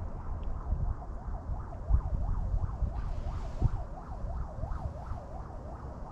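Wind buffeting the microphone in an uneven low rumble, under a faint warbling tone that rises and falls about two or three times a second.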